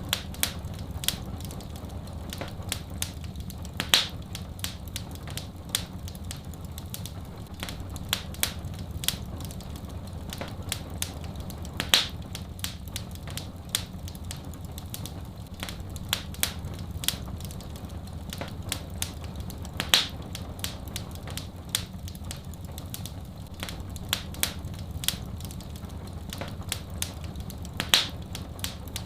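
Wood fire burning in a fireplace, crackling and popping continually, with a sharper pop about every eight seconds over a low steady rumble.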